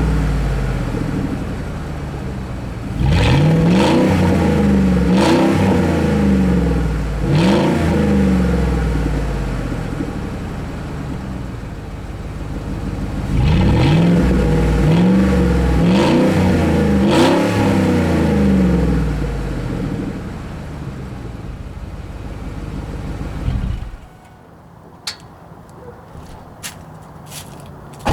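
2006 Ford F-150's 4.6-litre V8 revved through its exhaust in a series of quick blips, the pitch rising and sinking back to idle between them. The engine shuts off abruptly near the end, followed by a few short sharp clicks.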